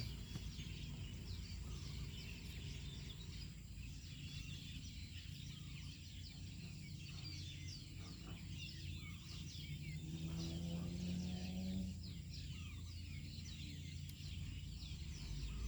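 Small birds chirping over and over in quick short calls, over a steady low hum. About ten seconds in, a low pitched drone swells for a couple of seconds and fades.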